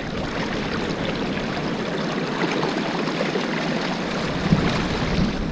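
River water rushing steadily over sand, a continuous churning rush with many small splashes.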